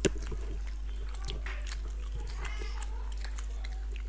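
Close-miked eating: wet chewing and lip-smacking clicks from two people eating curry with their hands, with one sharp smack at the start, over a steady low electrical hum.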